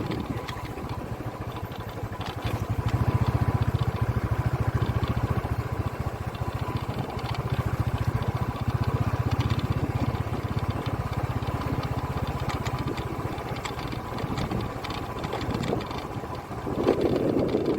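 A vehicle engine running steadily, a fast even chugging that grows louder about three seconds in and eases off again after about ten seconds.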